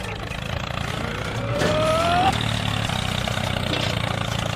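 Small motor of a DIY mini tractor running steadily, with a brief rising squeal about two seconds in.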